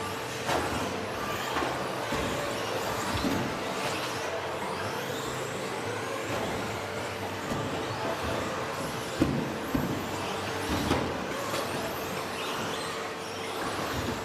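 Electric RC stadium trucks with 13.5-turn brushless motors racing on a dirt off-road track: motor whine rising and falling with throttle over a steady rush of tyres. Sharp knocks come now and then, the loudest about nine seconds in, from trucks landing off jumps.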